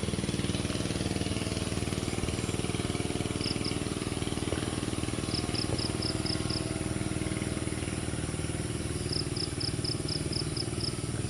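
A small engine running steadily at an even pitch. Over it come a constant high insect-like hiss and three short trains of rapid high chirps.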